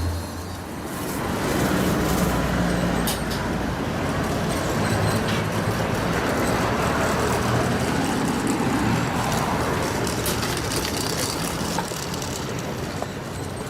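Road traffic noise: motor vehicles running and passing, with a low engine hum and a few faint clicks.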